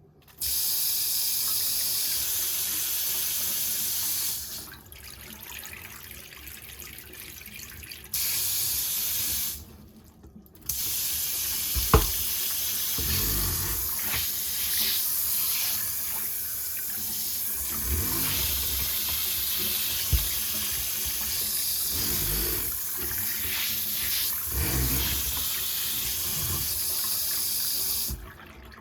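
Newly fitted KVK KM8007EC shampoo-shower faucet running water into the washbasin. The water is shut off about four seconds in, runs again briefly around eight seconds, then runs with changing splashing until near the end. There is a sharp knock around twelve seconds.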